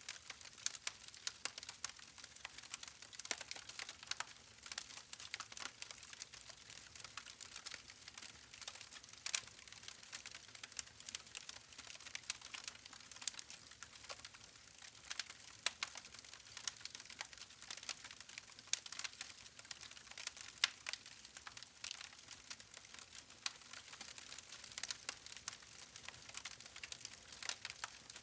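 Wood fire crackling: a dense run of irregular sharp pops and snaps from burning logs over a faint hiss, with no pause.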